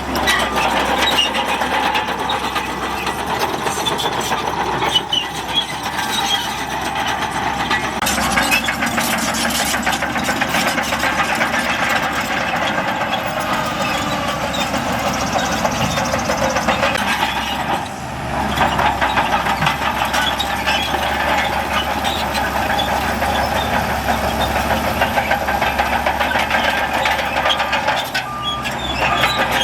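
Heavy diesel earthmoving machinery running steadily, with a dense clatter through it; the sound dips briefly about eighteen seconds in and again near the end.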